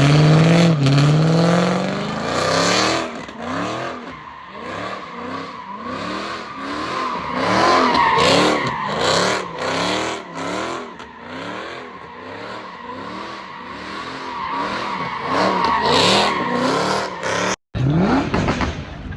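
A car doing donuts: tires squealing steadily against the pavement while the engine revs up and down over and over.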